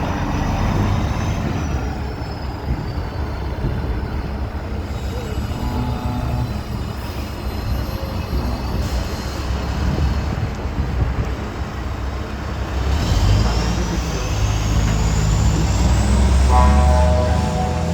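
Heavy truck diesel engines running close by. The sound swells in the last few seconds, with a rising whine.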